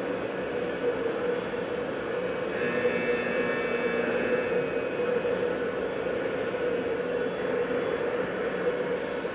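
Steady industrial drone from waste incinerator recordings, with a constant low hum under it. About three seconds in, a few high metallic ringing tones sound together for about a second and a half.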